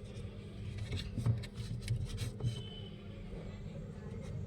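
Light clicks and taps from handling the opened speaker and small tools on a workbench, over a steady low electrical hum.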